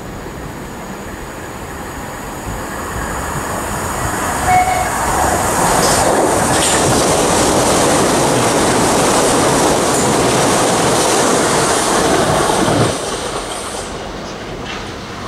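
Southeastern electric multiple-unit train passing beneath at speed and running away down the line: the noise builds as it approaches, is loudest for several seconds as the coaches go by, then drops off sharply as the last coach clears and fades. A brief high tone sounds about four and a half seconds in.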